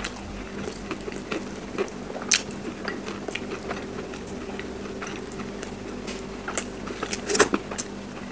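Close-up chewing and biting of crispy fried chicken: wet chewing with scattered crisp crunches, the loudest about two seconds in and twice near the end. A faint steady low hum runs underneath.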